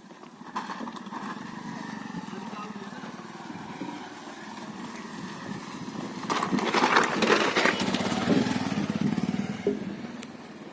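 A motor vehicle's engine passes close by: it builds up, is loudest a little past the middle, and then fades away.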